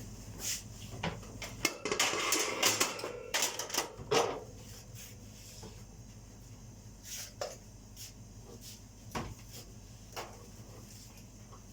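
Kitchen clatter of dishes and utensils knocking together, busiest about two to four seconds in, then occasional single light knocks and clicks.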